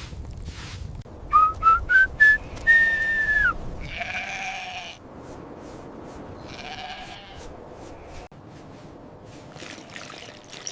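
Human whistle calling a flock: four short rising whistles, then one longer held whistle that drops away at its end. This is followed by two sheep bleats.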